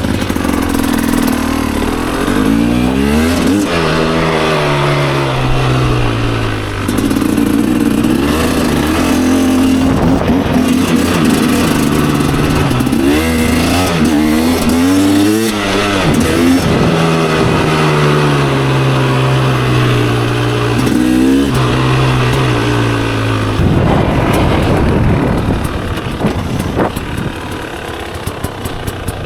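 2024 GasGas EC300's single-cylinder two-stroke engine pulling hard through the gears, its pitch climbing and dropping back at each shift, over and over. In the last few seconds the engine note drops and goes quieter.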